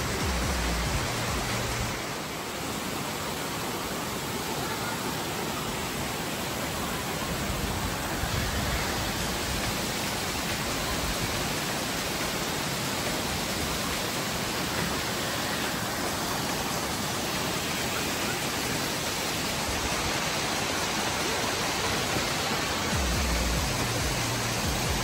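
Steady rush of falling and flowing water from a waterfall and stream, an even hiss with no breaks.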